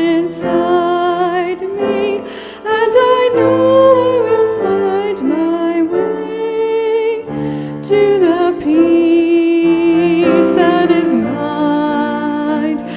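A woman singing a slow, gentle song with piano accompaniment, her voice holding long notes with vibrato.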